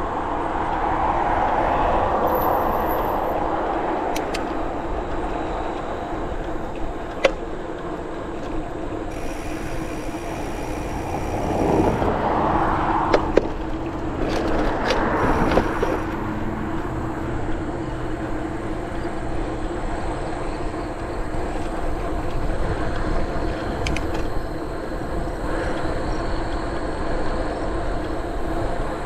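Bicycle riding along a trail: steady tyre and wind noise with a faint steady hum underneath, swelling louder twice and broken by a few sharp clicks.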